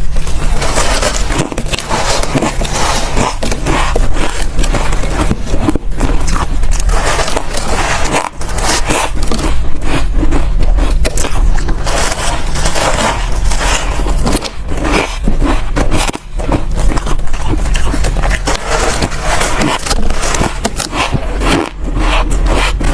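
Close-miked bites into soft, frosty white ice chunks, a continuous run of crunching and crackling.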